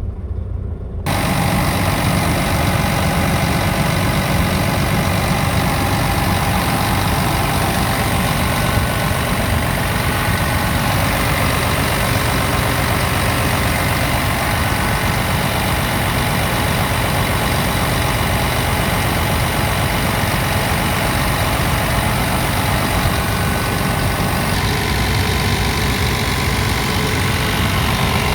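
Scania R tractor unit's Euro 6 diesel engine idling steadily; the sound comes in abruptly about a second in.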